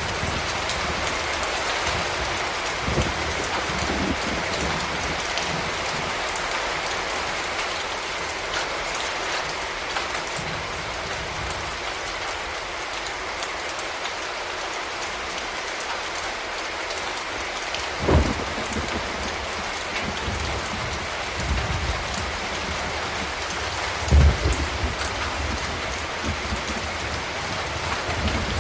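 Steady city rain, an even hiss of drops falling on hard surfaces. A few dull low thuds break through, the two clearest about two-thirds of the way in and again a few seconds later.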